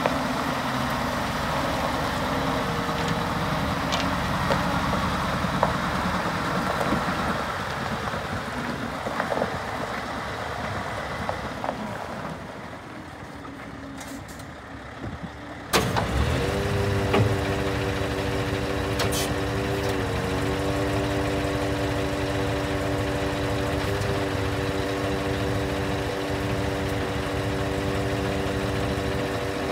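Scania R580 truck's V8 diesel engine running, dropping away for a few seconds, then starting again with a sudden burst about 16 seconds in and settling into a steady idle with a constant humming tone.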